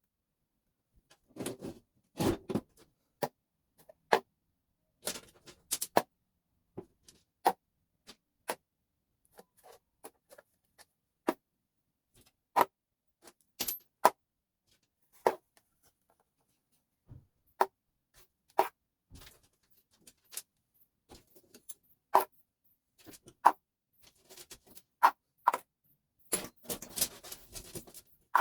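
Sharp clicks and clinks of metal and plastic parts handled while a Telemecanique fuse switch is taken apart by hand, coming singly every second or two, with a busier spell of rattling near the end.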